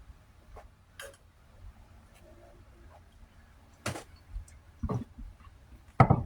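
A few scattered light clicks and taps, typical of eating and drinking at a table, then a loud low burp starting near the end.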